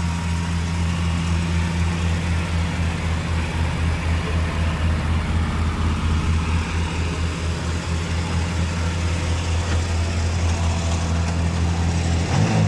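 Car engine idling steadily; right at the end its pitch drops as the idle comes down.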